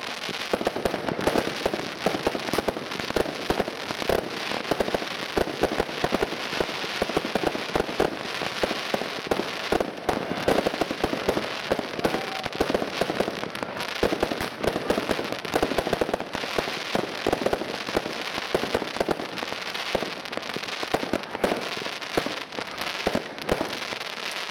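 Category 2 (F2) consumer fireworks going off in a continuous barrage: a dense, rapid stream of bangs, pops and crackling from aerial star bursts, with no pause.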